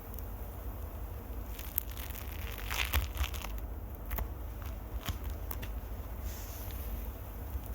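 ASMR microphone scratching: irregular crackling and scratchy clicks right on the microphone, over a low handling rumble, with denser bursts about a third and two thirds of the way through.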